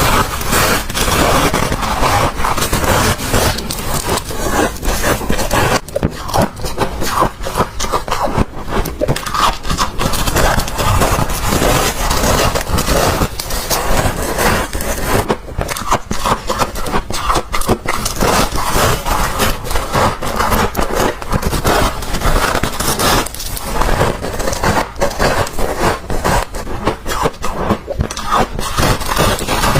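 Freezer frost crunching close to the microphone in a dense, unbroken run of crisp, scraping crunches.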